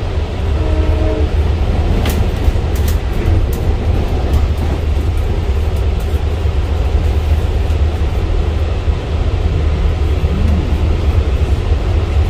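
Inside a moving Long Island Rail Road commuter train: the steady rumble of the car running along the track, with a few sharp clicks about two to three seconds in.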